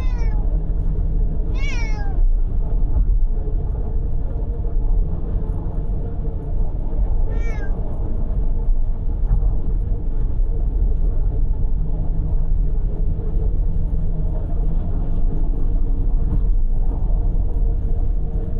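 A cat meowing three times, twice near the start and once about seven seconds in, each meow falling in pitch. A steady low rumble of car road and engine noise runs underneath, heard from inside the car.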